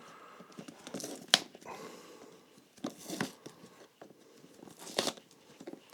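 Scraping and crackling as the sole layers of a welted leather shoe are worked apart, with three sharp snaps spaced about two seconds apart.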